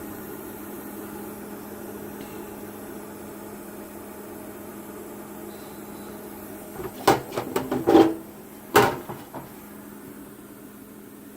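A CUT50 plasma cutter unit running with a steady hum. About seven seconds in comes a quick cluster of sharp cracks and clicks, the last and loudest near nine seconds.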